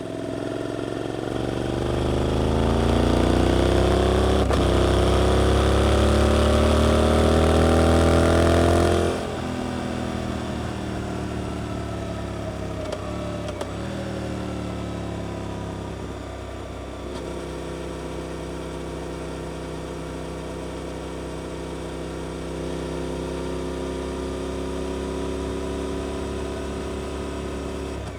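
Suzuki GSX-8S parallel-twin engine through an Arrows exhaust, pulling hard with a steadily rising pitch for about eight seconds. The throttle shuts abruptly about nine seconds in, and the note dips a few times before settling into a steadier, quieter run.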